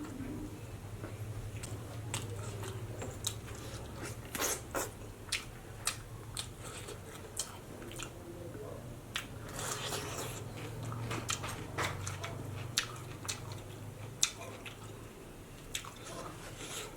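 Close-miked chewing and biting of thick, fatty pork rind in curry: wet mouth sounds with frequent sharp, irregular clicks and crunches, over a steady low hum.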